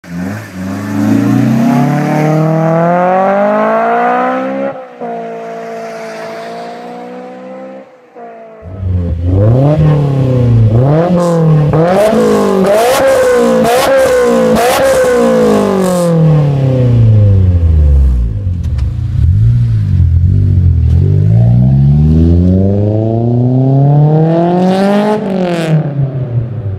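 Honda S2000 inline-four engine with an aftermarket exhaust being revved repeatedly, the pitch sweeping up and falling back. There are quick blips with sharp crackles in the middle, then slower climbs and drops back toward idle.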